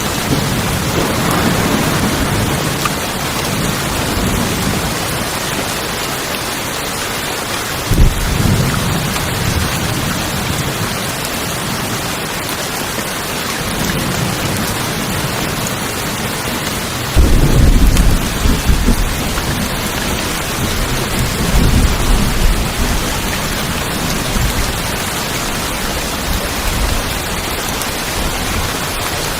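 Steady heavy rain drumming on tin roofs, with thunder: a sudden clap about eight seconds in, a loud rumble a little past halfway, and fainter rumbling shortly after.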